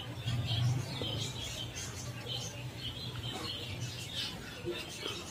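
Small birds chirping over and over, short high calls about two or three a second, over a steady low hum.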